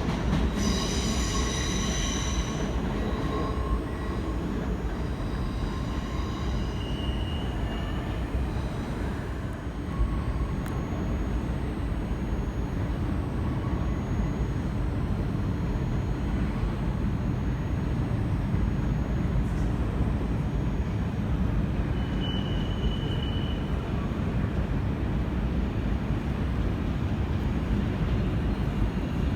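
Train running through a station with a steady low rumble, its steel wheels squealing on the rails: a strong high squeal in the first few seconds and two short ones later.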